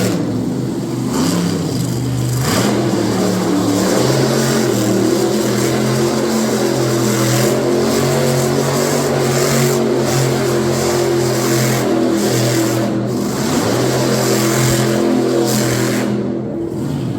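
Monster truck engine running loud at high revs, mostly holding a steady pitch, with brief drops near the start and near the end.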